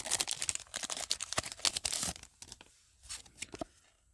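Foil booster-pack wrapper being torn open and crinkled by hand: dense crackling for about two seconds, then a few faint crinkles.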